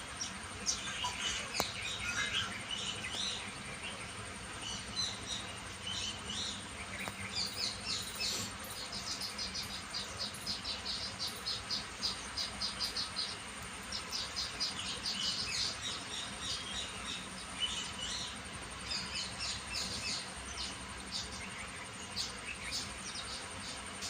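High, short chirps in rapid repeated trains, over a steady thin high-pitched tone.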